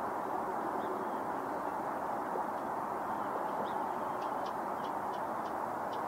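A steady rushing background noise, with a quick run of short, high bird calls over the second half.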